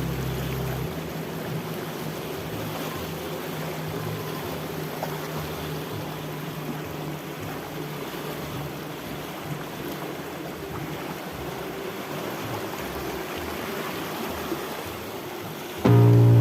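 Steady rushing of a flowing river, with a low steady hum that stops about a second in. Near the end, two short, loud blaring tones break in.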